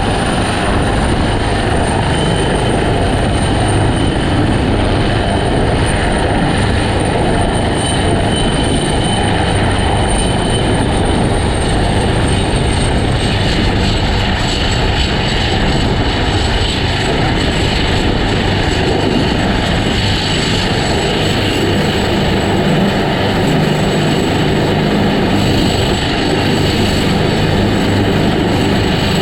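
Helicopter running close by: a loud, steady rush of engine and rotor noise with a thin high whine that drops slightly in pitch about halfway through.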